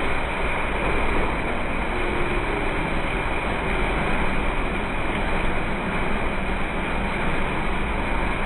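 Steady rushing noise of a staged flash flood, with water pouring and splashing, over a low rumble.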